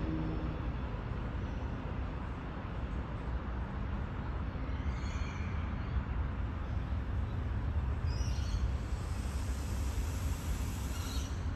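Low, steady rumble of a train moving off through the junction, with a few short bird chirps about five, eight and eleven seconds in.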